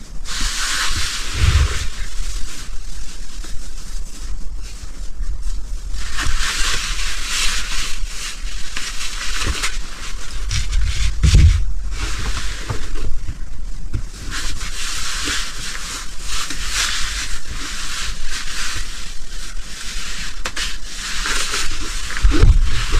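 Gusting wind, rising and falling in swells of hiss every few seconds, with low rumbles of wind buffeting the microphone now and then.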